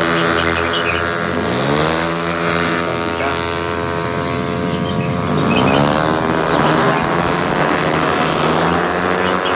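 Small automatic motorcycle engines racing on a dirt track, a steady drone of several bikes with the pitch rising twice, about a second and a half in and again after five seconds, as riders open the throttle.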